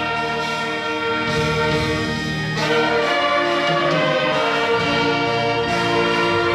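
Church orchestra with brass, trumpets and trombones to the fore, playing a hymn in sustained chords. The chords swell a little louder about two and a half seconds in.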